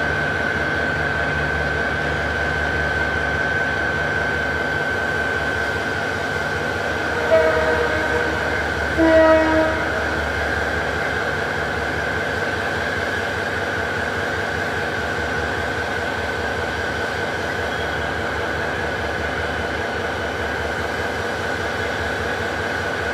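Passenger train running away over the tracks with a steady rumble and a steady high-pitched whine. The locomotive's horn sounds a short blast about seven seconds in and a longer one around nine seconds.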